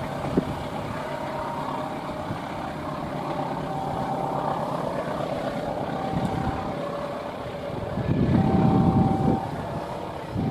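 Passenger train running past: a steady rumble of wheels on the rails with thin, intermittent high squeal tones, swelling louder about eight seconds in.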